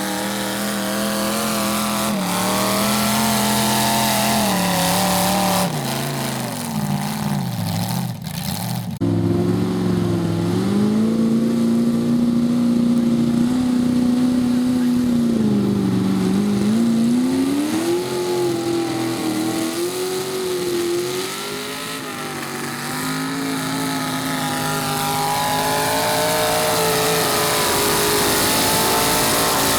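Garden pulling tractor's engine running hard under load, its pitch rising and falling as it bogs and picks up again. It breaks off abruptly about nine seconds in, then comes back louder.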